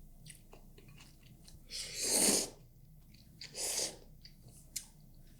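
Close-miked eating: soft chewing clicks, with two loud slurps of instant noodles about two seconds and three and a half seconds in.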